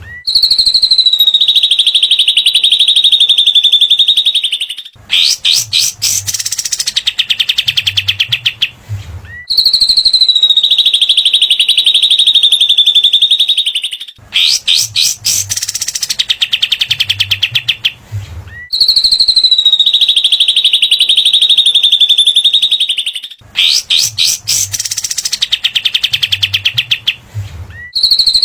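Looped masteran recording of cililin and katem birdsong: a long, very rapid, high trill lasting about four seconds, followed by a run of sharp, stuttering chattering notes. The same phrase repeats three times, about every nine and a half seconds.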